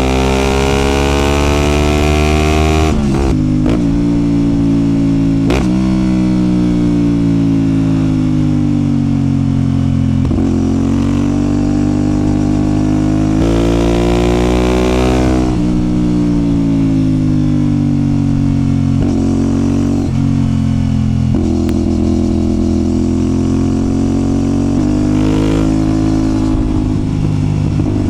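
CFMOTO 450SR's parallel-twin engine under way: the revs climb and drop sharply at several quick upshifts in the first few seconds, build again, fall away as the bike slows, and then hold steady near the end.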